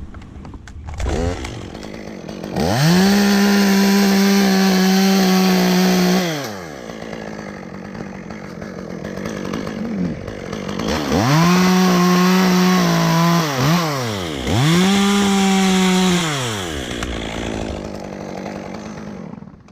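Chainsaw run up to full throttle three times, each time holding a high, steady note for a couple of seconds before dropping back, with a lower running sound in between, typical of cutting into a hickory trunk.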